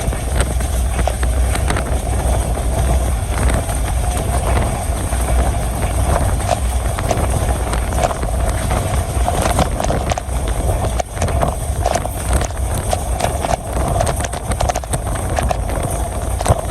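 Moving train: a steady low rumble with frequent rattling clicks and knocks from the wheels and carriage, mixed with strong wind noise.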